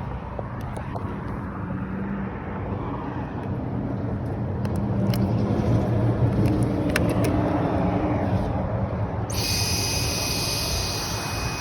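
A motor vehicle engine runs steadily, growing louder in the middle and easing off again. About nine seconds in, a steady high whine starts suddenly and cuts off about two and a half seconds later.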